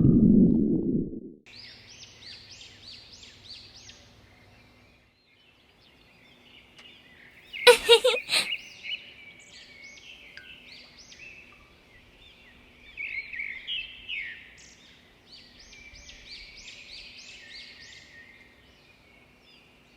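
A cat's low stomach rumble dies away about a second in. After that, birds chirp and sing quietly in repeated short phrases, broken about eight seconds in by a brief loud rattling burst.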